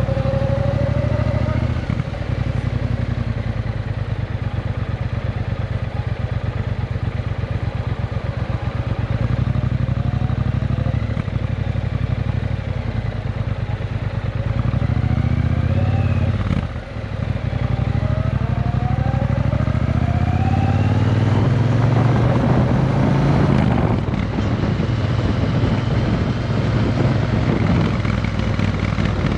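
Triumph Bonneville T120 parallel-twin engine running through a Vance & Hines aftermarket exhaust. The pitch rises several times as it accelerates, with a brief drop a little past halfway.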